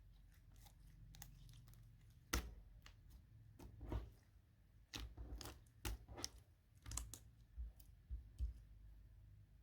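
Slime being squeezed and poked by hand: faint, irregular sticky clicks and pops, about ten over several seconds.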